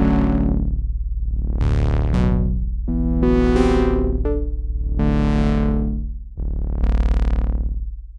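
Sequential OB-6 analog synthesizer playing a deep, bass-heavy patch. It plays a string of sustained notes and chords, and the filter sweeps open and closed on each one, so every note swells brighter and then darkens again. The last note dies away near the end.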